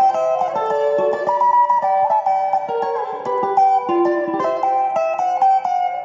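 Guitar playing a fast picked sebene lead, a quick run of single notes high on the neck.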